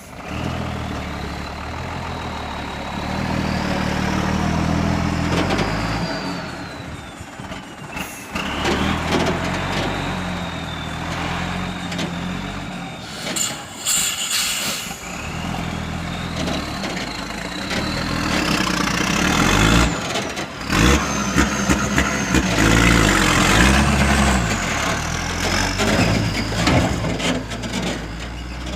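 Hino dump truck's diesel engine revving and working hard under load, its pitch stepping up and down, with a high whine that rises and falls with the revs twice. There are short sharp hisses about eight seconds in and again about halfway through.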